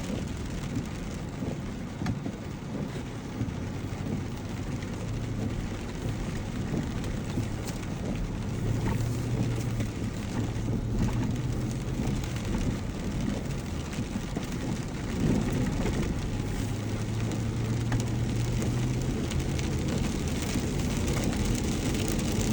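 Vehicle on the move, heard from inside: a low engine hum under steady crackling road and tyre noise, the hum swelling twice.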